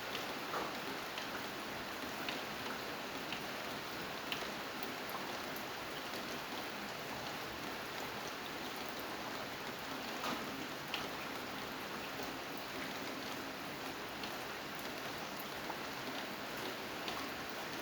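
Steady rain falling, a continuous hiss with scattered separate drops ticking on a surface.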